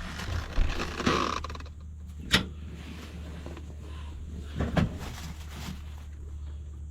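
Scattered sharp clicks and knocks of hand tools working on metal, over a steady low hum, while paint and grime are scrubbed out of a tractor's PTO shaft threads.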